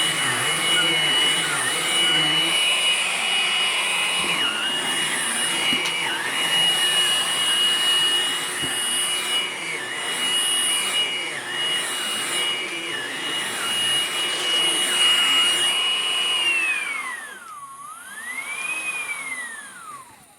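Hoover Blade Plus cordless stick vacuum running at full power: a steady high-pitched motor whine over the rush of air. About three-quarters of the way in it is switched off, and the whine falls away, swells up briefly once, then dies out.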